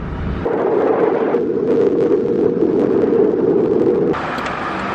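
Steady roar of a waterfall, a loud even rush of water. It changes abruptly about half a second in and again near the end, as if cut between takes.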